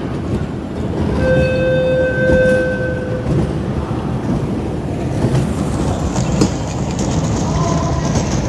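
Ride train running with a steady rumble and clatter; about a second in its horn sounds one held note for about two seconds.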